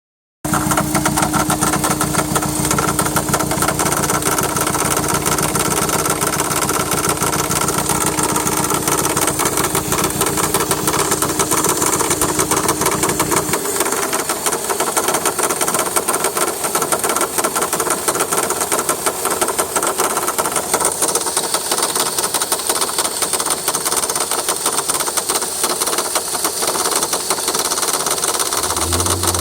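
Volkswagen Jetta 1.8T turbocharged four-cylinder engine idling with a fast, steady ticking; the low engine hum drops away about halfway through while the ticking carries on. The owner has already replaced the tensioner pulley without curing the tick and suspects the water pump or power steering pump.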